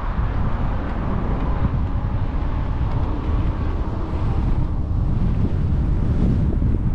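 Wind buffeting the microphone of a camera riding on a moving e-bike: a steady, dense low rumble with no breaks.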